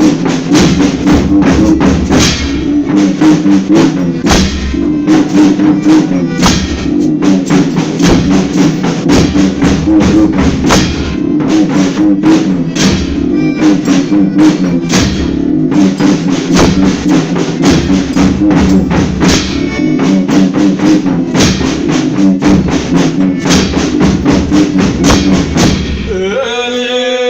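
Folia band playing an instrumental interlude between sung verses: a steady drum beat over sustained instrument chords. Near the end a male voice starts singing the next verse.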